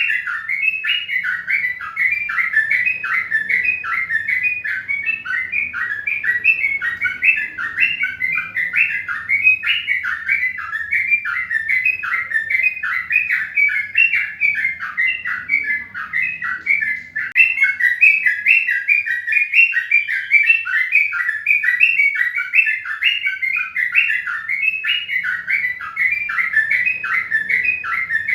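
Small birds chirping continuously in dense, overlapping short falling notes, several a second.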